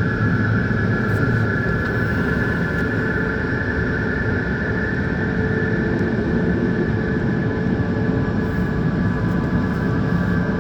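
Christ Varius automatic car wash machinery running steadily, a loud even rumble with a steady high whine over it.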